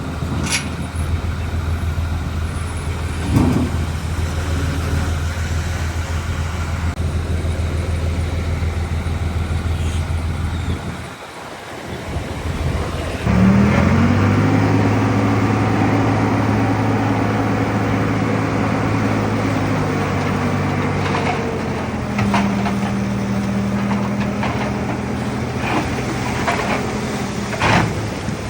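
Heavy diesel engines of earthmoving machinery running with a steady drone, which dips briefly near the middle. About halfway through, an engine revs up sharply with a rising pitch and holds at high revs under load, settling to a new pitch about two-thirds of the way in. Occasional short metallic knocks can be heard over it.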